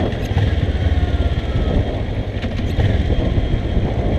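Kawasaki ER-6n motorcycle's parallel-twin engine running with a steady low rumble as the bike rolls along at low speed.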